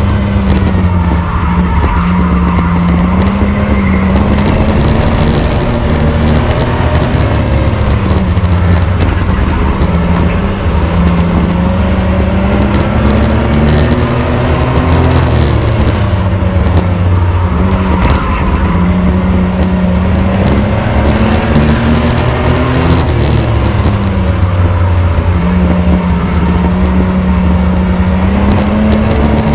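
Racing truck's engine running at racing speed under load, its pitch rising and falling in a repeating cycle of a few seconds, with road and tire noise underneath.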